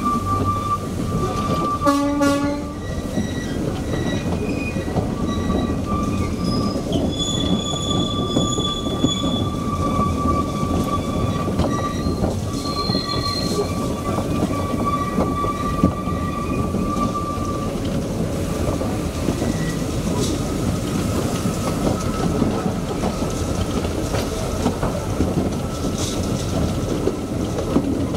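Narrow-gauge industrial train running along the track, heard from a wagon behind a small yellow diesel locomotive: a steady rumble of wheels on rails with a high wheel squeal that comes and goes. A short horn toot sounds about two seconds in.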